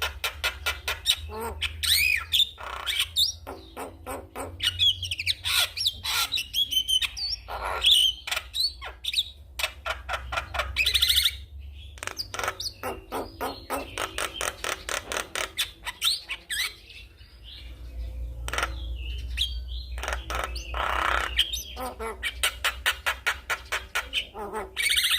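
Javan myna singing continuously: fast clicking rattles mixed with whistled notes that glide up and down, with a brief pause about halfway through.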